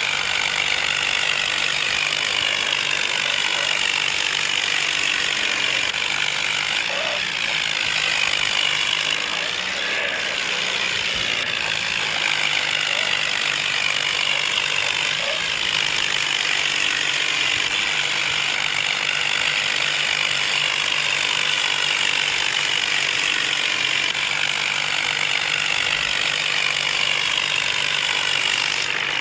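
Tractor engine running steadily and loudly throughout, with a busy mechanical clatter mixed in.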